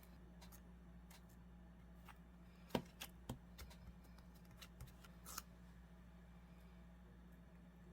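Quiet paper-craft handling sounds: a few soft clicks and rustles of paper, the sharpest a little under three seconds in, over a faint steady hum.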